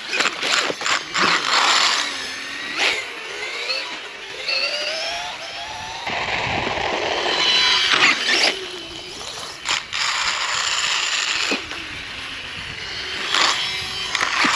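The brushless electric motor and chain drive of a Losi Promoto radio-controlled dirt bike whine up and down in pitch as it is throttled, with a mechanical whir and scattered sharp clicks and knocks.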